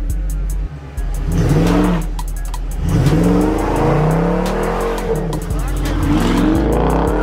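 A Dodge Scat Pack's 392 HEMI V8 revving up and down again and again, about once a second, during a tyre-smoking burnout, with tyres squealing.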